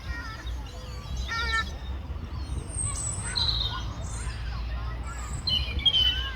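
Gulls calling, several short cries at intervals, over a steady low background rumble.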